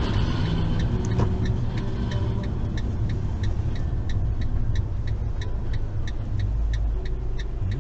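Car driving, with steady road and engine rumble heard from inside the vehicle, and a regular ticking about three times a second over it.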